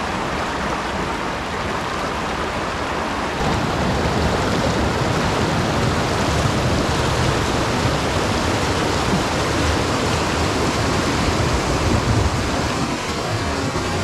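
Rushing floodwater, a steady loud noise that grows louder and deeper about three and a half seconds in.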